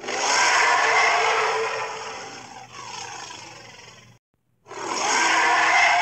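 Cartoon Sharptooth dinosaur roaring twice: a harsh, raspy roar that trails off with a falling growl after about four seconds, then, after a brief break, a second loud roar near the end.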